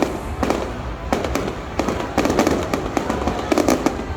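Aerial fireworks going off: a rapid run of bangs and crackling bursts that come in clusters about a second apart.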